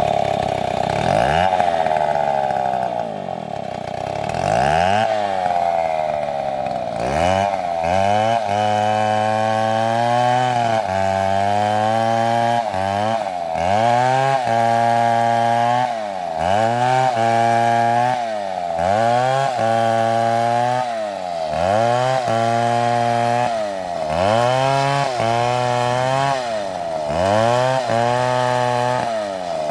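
Chainsaw engine running at high revs while cutting wood. After a few seconds of steady running, its pitch dips and recovers over and over, roughly every second and a half, as the chain bogs down under the cut.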